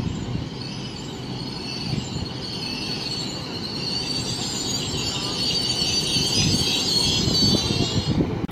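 GWR Class 800 bi-mode train arriving along the platform: a high-pitched squeal from the wheels and brakes, growing louder as it slows, over a low running rumble.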